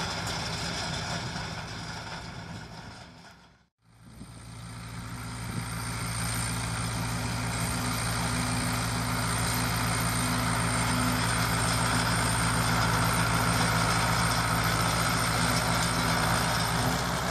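Zetor Crystal tractor's diesel engine running steadily. The sound fades to silence almost four seconds in and comes back as a steady, slightly louder engine drone.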